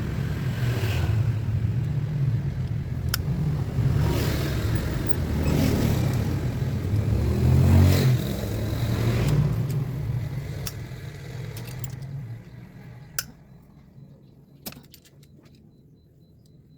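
A car engine running with a low rumble that swells and eases, loudest about eight seconds in. It fades away gradually after about twelve seconds, and a few sharp clicks follow near the end.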